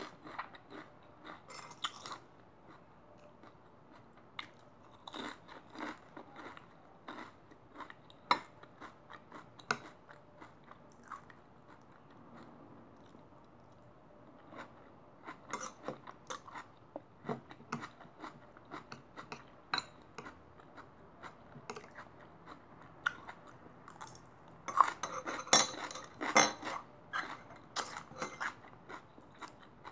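Close-up chewing of crisp raw salad vegetables: irregular wet crunches and bites, busiest and loudest about twenty-five seconds in.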